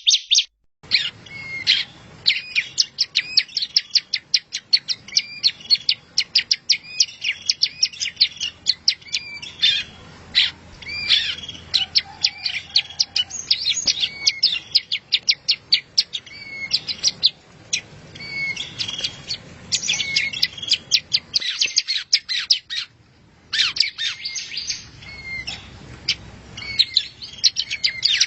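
Songbird masteran recording: a bird singing fast, high-pitched chirps and trills almost without pause, with a short break about two thirds of the way through.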